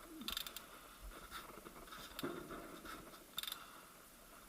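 Faint metallic clicks and scraping in a few short bursts: tools working the rear bearing off a VAZ manual gearbox's secondary shaft.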